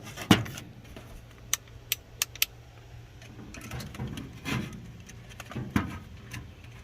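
Scattered clicks and knocks of objects being handled, with a quick run of sharp clicks about two seconds in.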